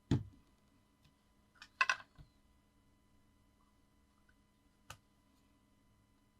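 Paper and card being handled on a tabletop: a knock as a piece is set down just after the start, a short crisp crinkle about two seconds in, and a single small click near five seconds.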